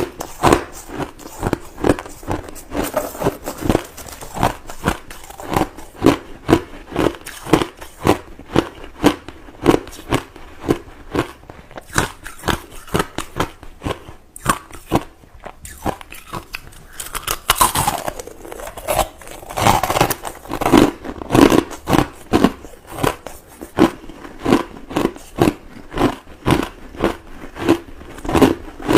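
A person chewing crushed white ice close to the microphone, a steady rhythm of crisp crunches at about two a second, with a louder, denser run of crunching a little past halfway.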